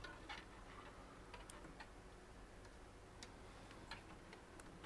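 Near silence with a few faint, irregular light clicks from PC cables and plastic connectors being handled.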